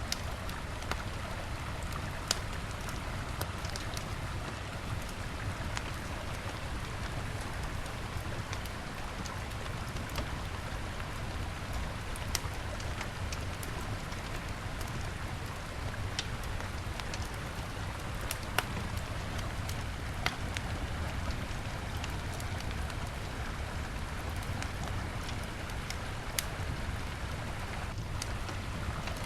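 Wood campfire crackling, with sharp pops every few seconds, over the steady rush of a river.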